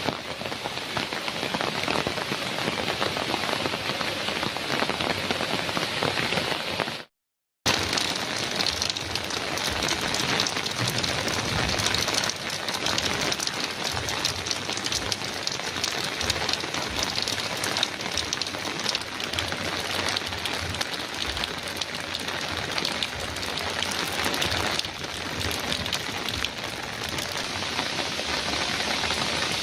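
Heavy rain pattering steadily on a metal roof, a dense even downpour. It cuts out completely for about half a second some seven seconds in, then resumes unchanged.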